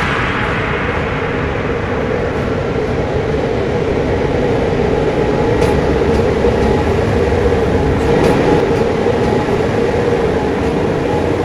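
Train running at a steady speed along the track: a continuous rumble with a steady hum and a faint click or two from the rails.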